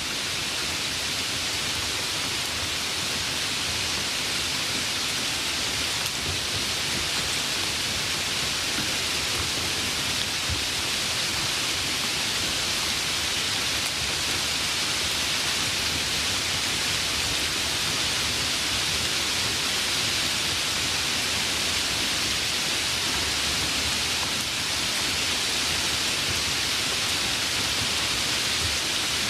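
Steady rain falling: an even, hissing wash of sound with no separate drops or thunderclaps standing out.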